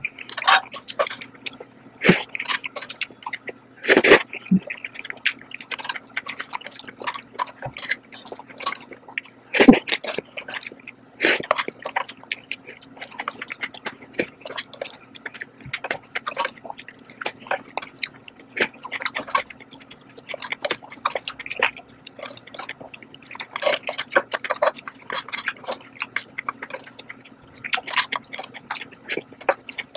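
Close-miked mouth sounds of someone eating jajang noodles with abalone: a steady stream of short wet clicks and lip smacks from chewing, with a few louder smacks.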